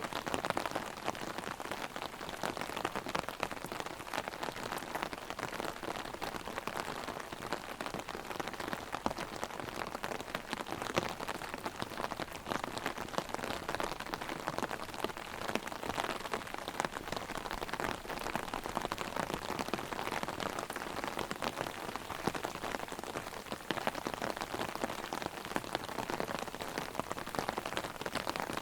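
Heavy rain drumming on an umbrella held overhead: a dense, steady patter of drops hitting the fabric, with the wash of rain falling all around.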